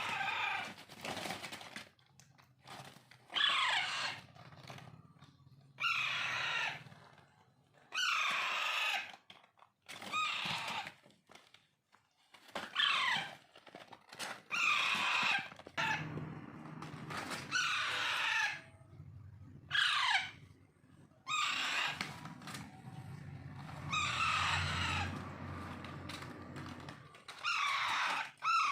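Alexandrine parakeet chicks giving begging calls while being handfed. The calls come about one every two seconds, each about a second long and sliding down in pitch.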